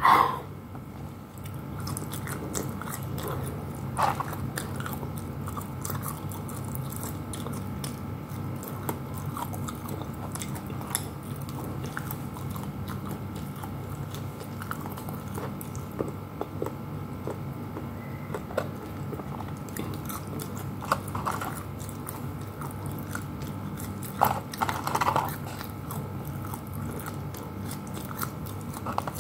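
Close-up mouth sounds of a person biting and chewing fried chicken and French fries, with many small clicks throughout and a few louder bites about four seconds in and near the end, over a steady low hum.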